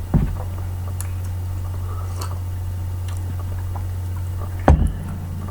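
Steady low electrical hum with a few faint ticks, and a single dull thump about four and a half seconds in, heard during a pause while a man eats breakfast.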